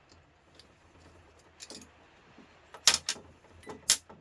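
Sharp clicks and metallic clinks as a small flathead screwdriver works apart a plastic three-pin mains plug with brass pins. The loudest clicks come a little under three seconds in and again near the end.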